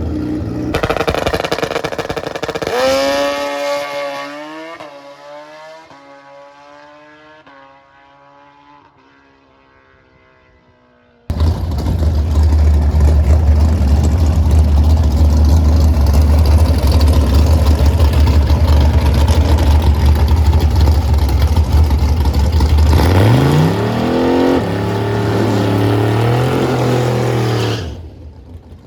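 Drag-racing engine at full throttle, its note climbing and then falling away as it fades down the strip. About eleven seconds in, a loud, deep engine rumble starts suddenly and holds steady, then revs up in rising steps before cutting off near the end.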